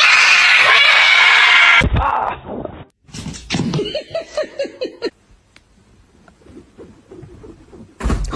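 Cat yowling loudly and harshly for about two seconds. After a cut, a quicker run of short cat cries follows.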